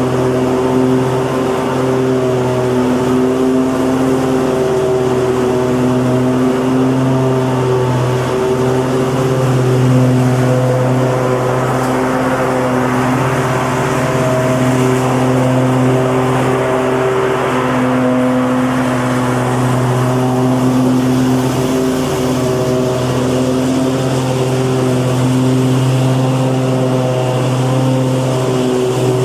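Lawn mower engine running steadily at constant speed, a loud, even drone with no change in pitch.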